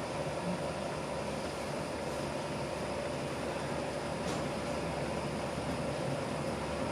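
Commercial laundry machines (Primus washer and tumble dryers) running, a steady, even machine hum.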